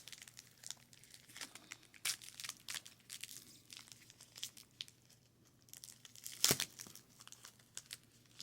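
Plastic snack packaging being crinkled and torn open, with scattered crackles and one louder rustle about six and a half seconds in.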